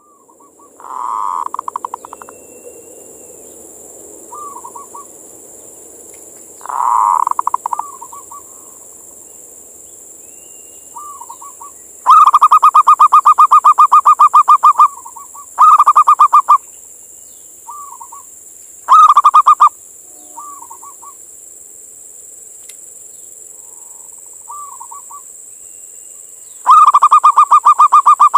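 Male zebra dove (perkutut) cooing song: repeated phrases of rapid trilled coos, the loudest and longest about twelve seconds in and again near the end, with short soft calls in between. A steady faint high hiss runs underneath.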